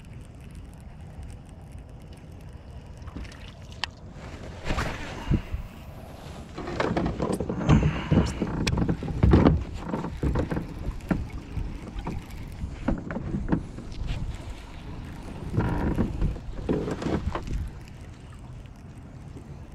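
Knocks, rattles and water noise on a fishing kayak, with steady wind noise on the microphone underneath. The knocking starts about four seconds in, is loudest in the middle and again near the end, then settles back to the wind.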